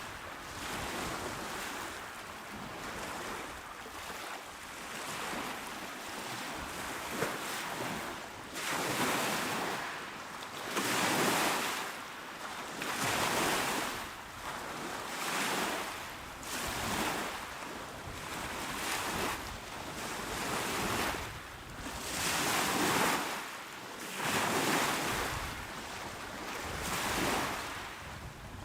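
Small, calm waves breaking on a shore, one surge of wash after another about every two seconds.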